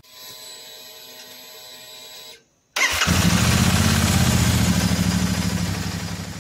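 A steady hum of several held tones for about two seconds, then a motorcycle engine starts suddenly with a loud burst and runs with a deep, even sound, fading out near the end.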